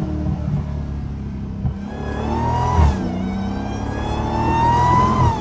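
Dodge Challenger Hellcat's supercharged Hemi V8, straight-piped with a mid-muffler delete, accelerating hard. The engine pitch rises, drops at an upshift about three seconds in, then rises again through the next gear and eases off near the end.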